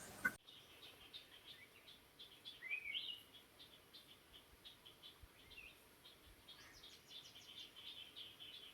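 Songbirds chirping softly: many short high chirps, a louder sliding phrase about three seconds in, and a denser run of rapid chirps near the end. Beneath them is a faint hiss.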